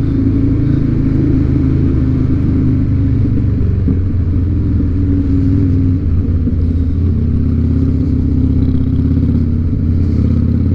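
2007 Harley-Davidson Night Train's Twin Cam 96 V-twin engine running under way at a steady cruise, with a brief dip about six seconds in before it settles again.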